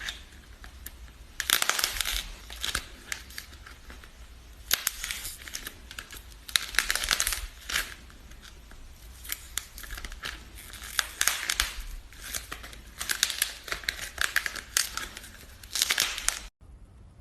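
Crisp crackling and crinkling in short bursts every second or two, from something being handled close to the microphone. The sound cuts off abruptly near the end, leaving a faint hiss.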